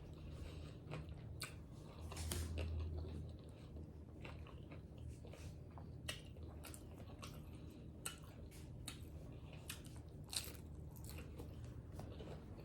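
A person biting into and chewing tacos close to the microphone: irregular small clicks and mouth smacks, with occasional crunches.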